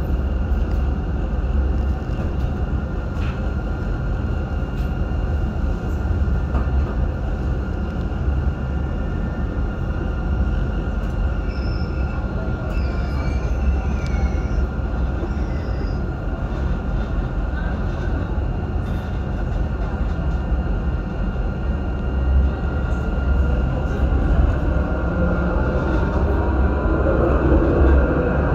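A train running: steady low rumble and rail noise, with a whine that rises in pitch over the last few seconds.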